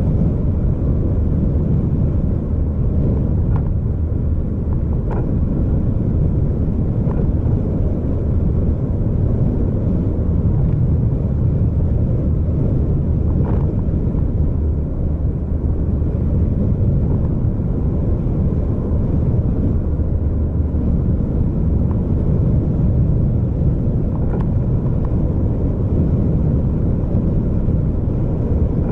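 A vehicle on the move: a steady low rumble of engine and road noise, with a few faint ticks now and then.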